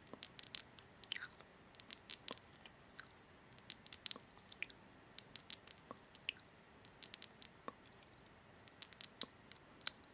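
Close-up chewing: irregular clusters of small wet, crunchy clicks, a few a second with short pauses.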